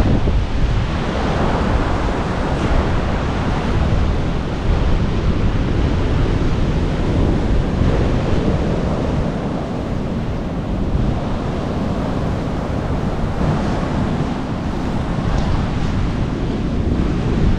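Sea surf washing in continuously, with wind buffeting the microphone and adding a low rumble.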